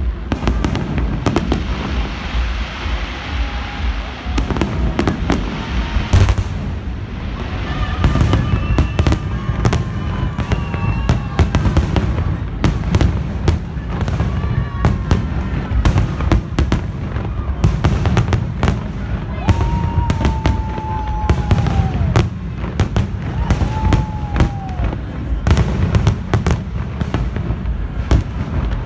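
Aerial fireworks shells going off in quick succession: a continuous run of deep bangs and sharp crackles, with no break.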